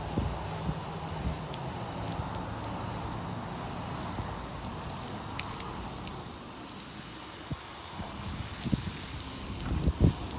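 Water spraying from a hose watering wand onto the soil of a freshly potted palm container: a steady hiss.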